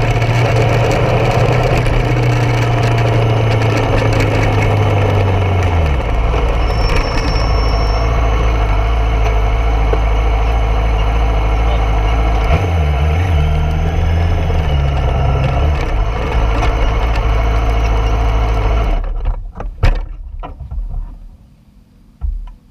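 Yamaha R6 inline-four engine running steadily at low revs, then dropping to a lower idle about six seconds in. Its revs rise briefly partway through, and the engine cuts off near the end, followed by a few short knocks.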